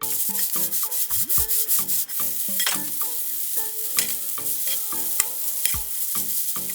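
Egg noodles with chicken and vegetables sizzling in hot oil in a pan, with short taps and scrapes from a utensil stirring them.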